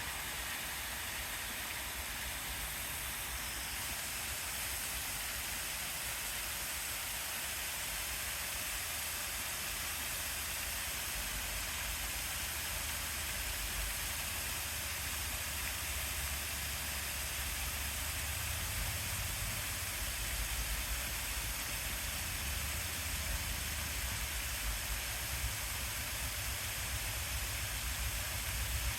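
Waterfall: a steady rush of falling water, with a low rumble that grows stronger about halfway through.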